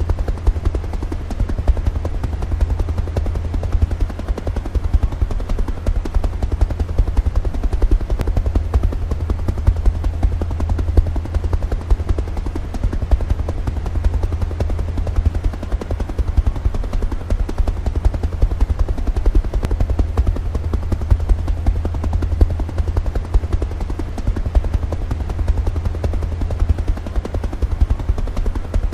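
Helicopter rotor running steadily, a fast continuous chopping over a deep low drone.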